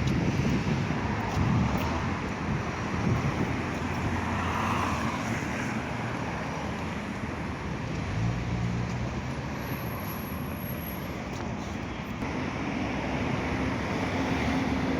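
City street traffic noise with wind buffeting the microphone. A low steady hum comes in about eight seconds in.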